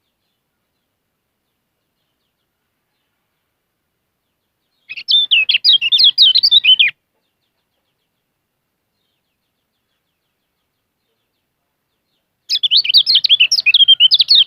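Kecial kuning white-eye singing: two bursts of fast, high twittering song, each about two seconds long, the first about five seconds in and the second near the end.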